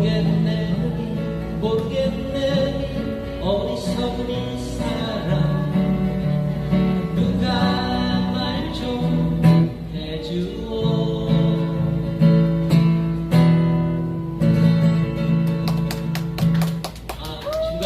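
Live acoustic guitars strumming chords, with a melody line running over them.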